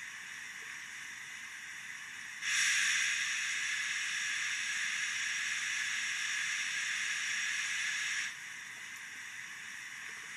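Recorded steam-locomotive blower hiss played through a DCC sound-fitted Accurascale J68 model's small speaker. A much louder burst of steam hiss switches on about two and a half seconds in and cuts off abruptly about six seconds later.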